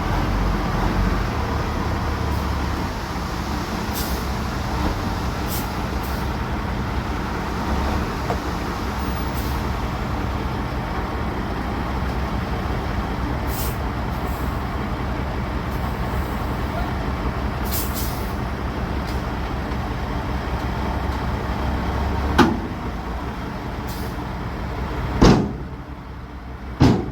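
Caterpillar 3406 diesel engine of a heavy dump truck running steadily, with scattered light clicks. Near the end come three loud, sharp bangs, and the drone is quieter after the first of them.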